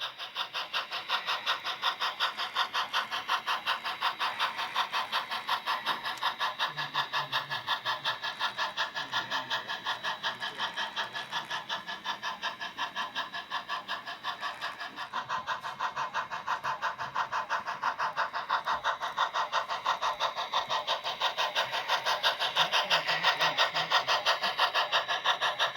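Model steam locomotive's sound unit chuffing in a steady, even rhythm of about three beats a second.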